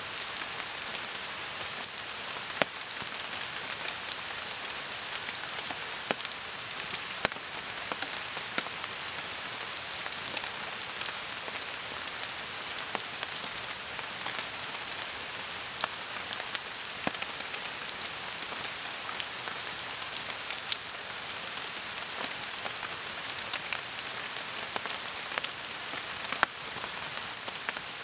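Steady rain falling, an even hiss, with a campfire crackling in scattered sharp pops, a few of them louder.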